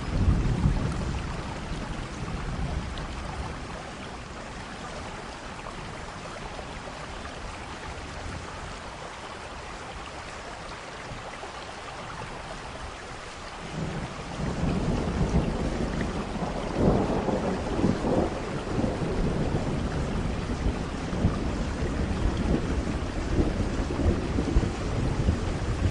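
Thunderstorm: steady rain with rolling thunder. A low rumble fades away over the first few seconds, leaving the rain, then about halfway through a long, loud peal of thunder breaks in and keeps rolling, with its sharpest cracks a few seconds after it begins.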